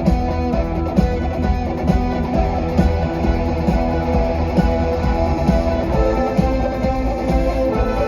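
Live rock music: electric guitars strumming with bass over a steady beat.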